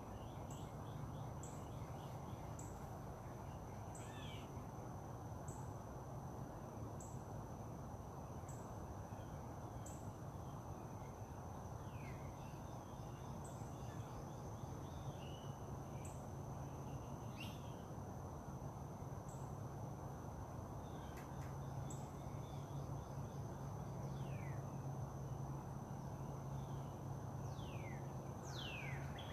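Outdoor nature ambience: birds giving scattered short, falling calls over a steady high-pitched insect trill, with a low steady hum underneath.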